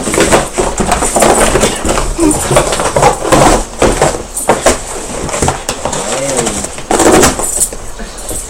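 A dog chewing and tearing a cardboard box: irregular crunching and ripping of cardboard.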